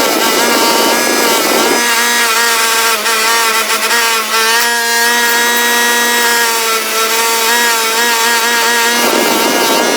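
Wire wheel on a bench-mounted motor running with a steady whine while it brushes rust and scale off the steel clamp. The scratchy brushing noise eases about two seconds in and comes back near the end, while the whine goes on.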